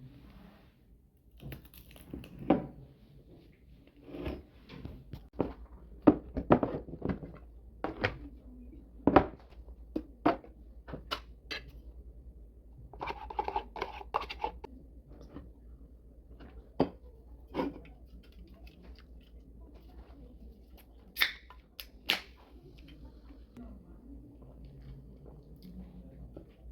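Scattered sharp clicks, knocks and rustles of food and kitchenware being handled, with a denser stretch of rustling about halfway through.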